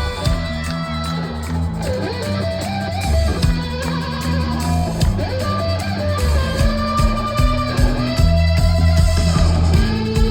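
Rock band playing live, with guitars and bass to the fore.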